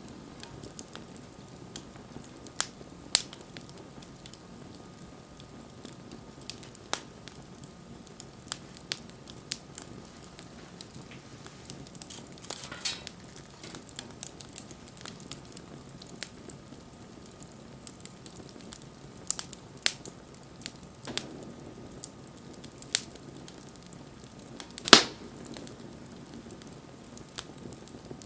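Wood fire crackling: irregular sharp pops and snaps over a soft steady hiss, with one louder pop near the end.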